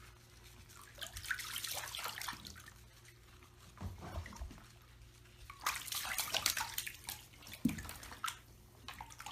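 Water splashing and sloshing in irregular bouts, over a faint steady low hum.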